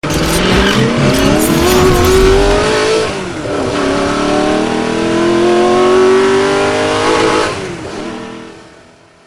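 Car engine accelerating hard, rising in pitch for about three seconds, dropping at a gear change, then climbing again in the next gear before fading away over the last second or two.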